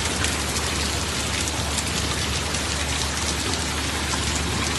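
Heavy storm rain pelting down: a dense, steady hiss of rain on hard surfaces, peppered with many small sharp impacts.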